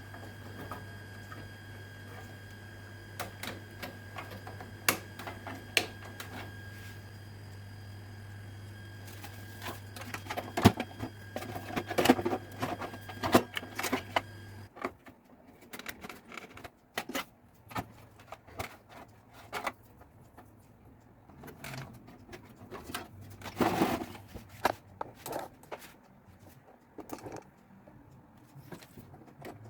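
Small clicks, taps and knocks of parts and tools being handled on a repair bench, over a steady electrical hum that cuts off suddenly about halfway through.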